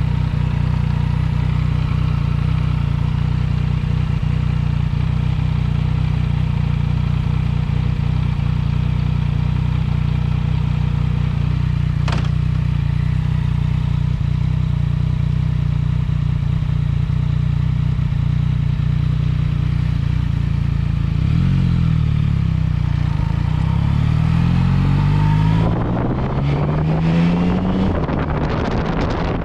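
Yamaha MT-09 Tracer's inline-three engine through an Akrapovic exhaust, running at a steady, even note for most of the clip, with a single sharp click about twelve seconds in. Near the end it accelerates, the pitch rising several times in succession as it pulls through the gears, and wind noise builds over it.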